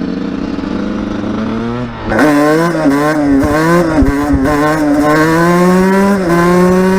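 Two-stroke dirt bike engine pulling hard. It holds a steady note for about two seconds, eases off briefly, then comes back louder at full throttle. Its pitch climbs, drops as it shifts up about six seconds in, and climbs again.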